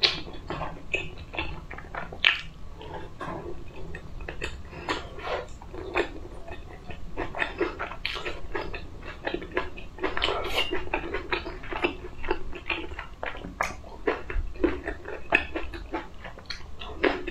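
Close-miked chewing and biting of food, cherry tomatoes among it: a dense, irregular run of short wet crunches and mouth clicks, with light clinks of a fork and dish.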